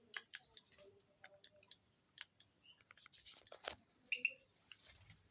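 Lovebird giving short, high chirps, a quick cluster right at the start and another about four seconds in, with soft scattered clicks between.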